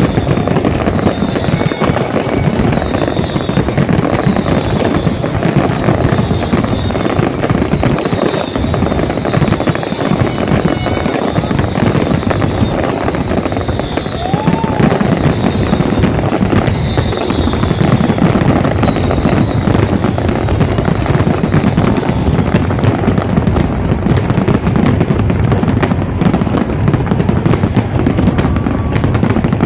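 Fireworks display: a dense, continuous barrage of bangs and crackling, with short falling whistles repeating through the first two-thirds.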